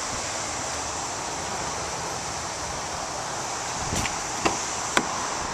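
Steady outdoor background hiss, with three short sharp clicks about half a second apart near the end.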